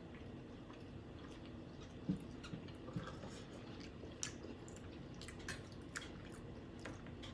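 Faint chewing and mouth smacking of people eating a shrimp boil, with scattered small clicks and one louder tap about two seconds in.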